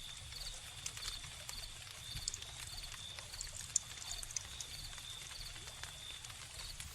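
Wood fire crackling with scattered sharp pops, over crickets: a steady high trill and short chirps repeating about twice a second.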